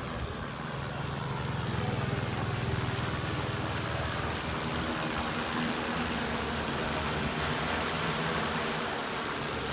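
Multirotor agricultural spraying drone's propellers droning steadily with a low hum, growing a little louder about two seconds in.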